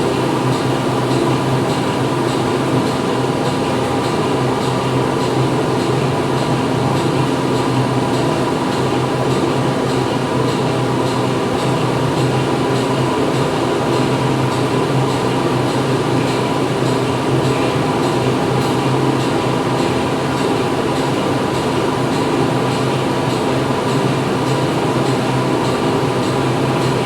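Factory machinery running steadily: a loud, unbroken mechanical hum with several constant tones over a dense noise, with faint regular ticking.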